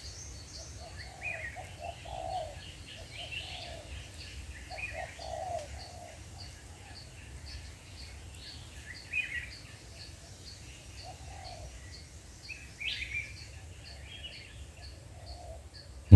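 Spotted doves cooing in short phrases at intervals, the caged decoy and a wild dove in the bush calling back and forth. Higher chirps and a regular high ticking from other birds run underneath.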